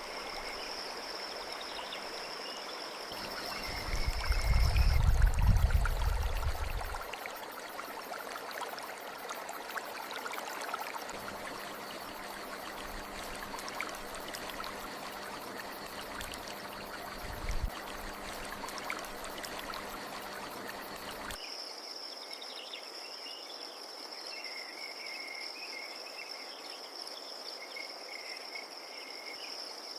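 Crickets trilling in one steady high tone, with fainter wavering chirps beneath. About three seconds in it cuts to the even rush of a flowing stream, with a loud deep rumble for a few seconds soon after. About twenty-one seconds in it cuts back to the steady cricket trill and chirps.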